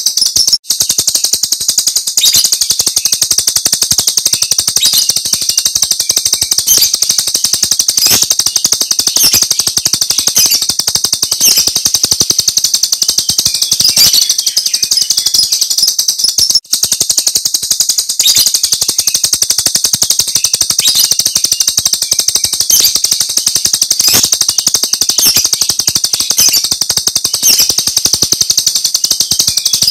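Jalak Rio starling giving its rapid, high-pitched 'tembakan' (shooting) call as one long, fast stream of sharp notes, broken briefly twice.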